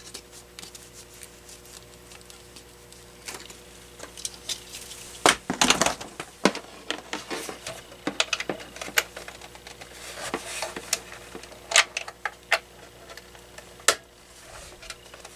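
Scattered clicks, knocks and plastic clatter from a power adapter's plug being fitted and a cordless phone base being handled. The loudest knocks come about five to six seconds in, and a run of lighter clicks follows.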